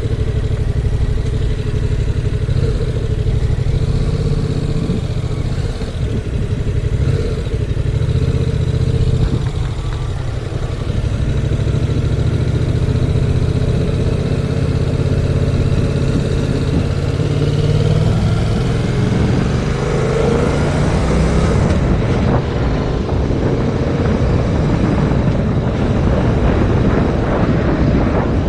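2019 Yamaha MT-07's parallel-twin engine running on the move, with heavy wind noise on the camera microphone. The engine pitch climbs as the bike accelerates about two-thirds of the way in.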